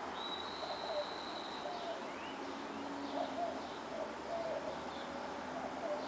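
Early-morning birds calling: short, varied notes repeating throughout, a long steady high whistle in the first couple of seconds and a quick rising note about two seconds in, over the low steady rush of distant traffic.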